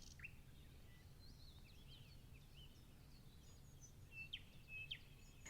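Faint birdsong: a few scattered short chirps over a low, steady background hum.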